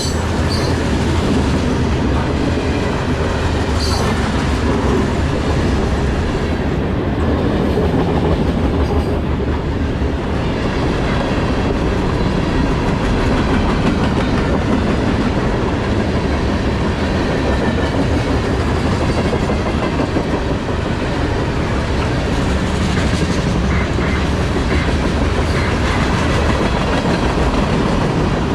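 Norfolk Southern freight train rolling past at close range: a steady loud rumble of cars with wheels clicking over the rail joints. Brief high wheel squeals come near the start and about four seconds in.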